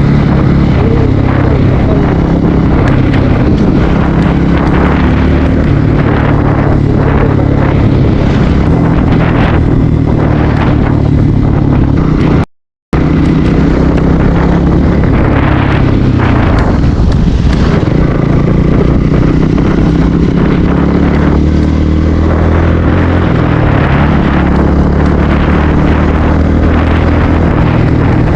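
Bajaj Pulsar NS160 single-cylinder engine running under way, its pitch rising and falling with throttle and gear changes, over a steady rush of wind noise on the action camera's built-in microphone. The sound cuts out completely for a split second about twelve seconds in.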